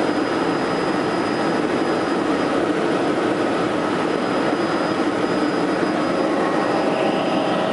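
Helicopter in flight: steady engine and rotor noise with a thin high whine.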